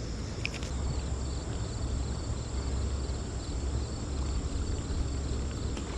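Crickets trilling steadily in the background over a low, steady rumble, with a couple of faint clicks.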